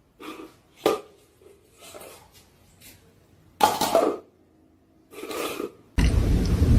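A series of short coughing or hacking bursts, about seven of them spaced irregularly, the strongest one around three and a half seconds in. Near the end the sound cuts abruptly to a loud, steady rushing noise.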